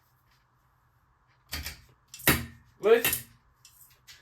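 A man's voice saying a few short words after a second and a half of near silence.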